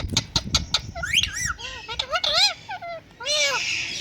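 Pet parrot calling: a few sharp clicks, then a string of short chirps and whistles that rise and fall, and a harsh squawk near the end.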